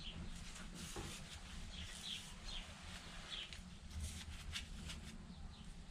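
Faint bird chirps, short and scattered, over a low steady hum, with a few light clicks and taps as a ferrite ring magnet and steel plate are handled.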